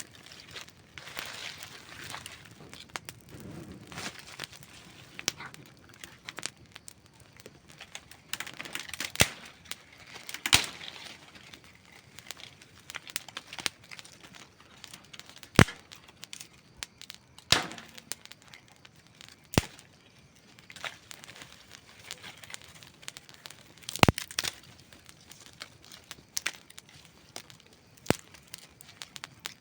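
Wood campfire crackling: a soft hiss broken by irregular sharp pops and snaps, the loudest about halfway through and again near the end.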